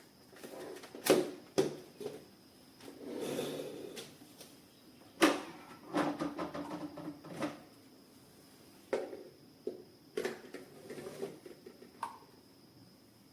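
Irregular sharp clicks and knocks of hard objects being handled, with a brief rustle a few seconds in.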